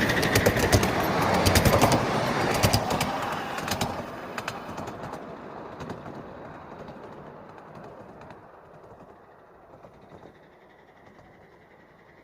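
A 5-inch gauge live steam locomotive giving off a steam hiss with a rapid string of sharp clicks. Both fade away over about eight seconds, the clicks dying out about five seconds in.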